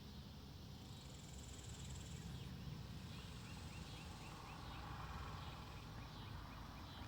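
Woodland ambience: a low, steady wind rumble with a bird giving a quick run of short, high chirps through the middle. A faint high buzz is heard about a second in.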